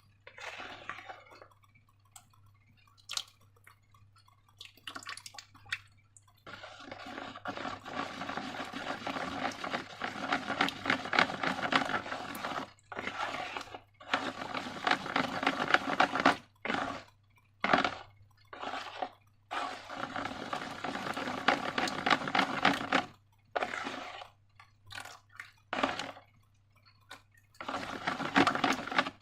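Sticky slime being squished and worked, giving wet crackling squelches. They come in long bouts with brief pauses after a quieter start of a few soft clicks.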